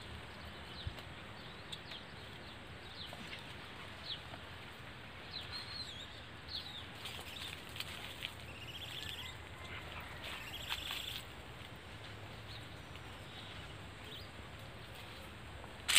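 Small birds chirping and calling on and off over a faint steady outdoor background. The calls are thin, short chirps and quick pitch glides, thickest around the middle.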